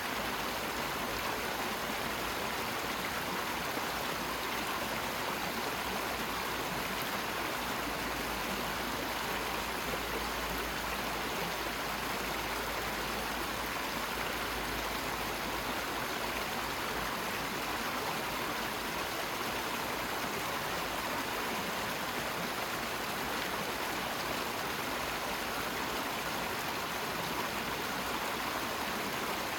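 Steady, unbroken rushing of running water, like a waterfall.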